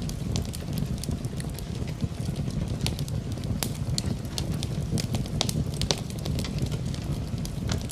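Wood fire crackling in a fireplace: irregular sharp pops and snaps over a steady low rushing noise, mixed with the sound of rain.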